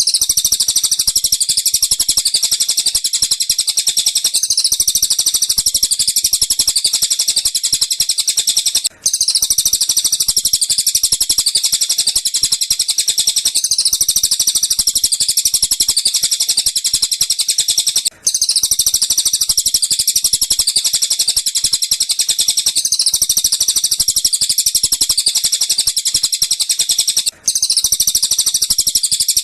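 Looped bird-song training recording of tengkek buto and cililin calls: dense, continuous, high-pitched chirping and twittering. The same stretch of about nine seconds repeats, with a brief drop-out at each loop point, three times.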